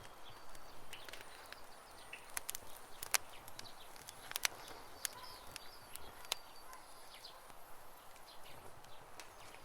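Campfire crackling with irregular sharp pops, the loudest a little after three and four seconds in. Birds chirp briefly behind it.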